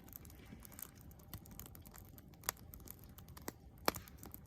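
Wood campfire crackling: scattered small snaps with a few sharper pops, about two and a half, three and a half and four seconds in.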